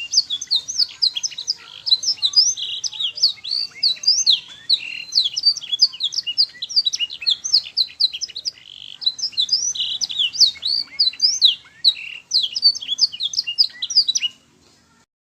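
Domestic canary singing a long, fast song of rapid chirps and trills, with notes sweeping up and down in quick succession. The song stops abruptly near the end.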